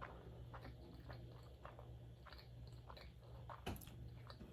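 Faint close-up chewing of sushi, with soft wet mouth clicks about twice a second and one sharper click near the end.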